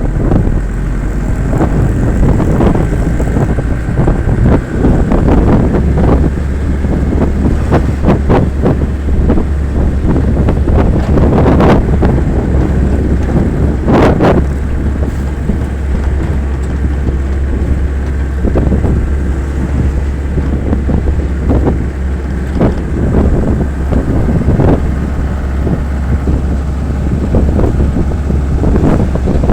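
Wind buffeting the microphone over the low, steady rumble of a moving vehicle, with frequent knocks and rattles throughout.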